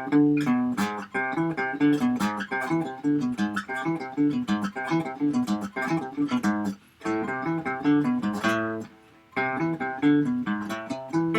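Guitar playing a single-note melody, one plucked note at a time, with two short breaks about seven and nine seconds in.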